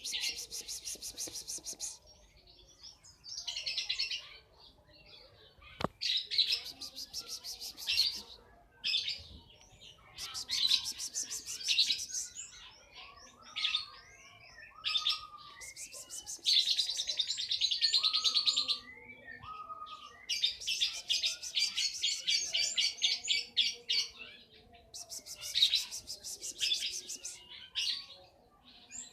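Two-month-old lovebird chattering in repeated high, rapid trills lasting one to three seconds each, with short chirps in between.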